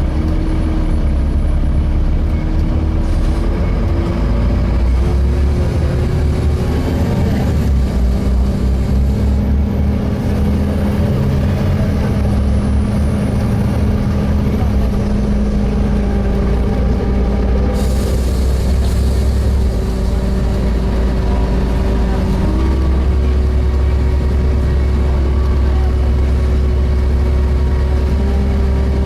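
Inside a Volvo B7TL double-decker bus on the move: the diesel engine and its cooling fan running with a heavy rumble and steady whining tones that shift a little in pitch. About two-thirds of the way through, a hiss comes in and fades.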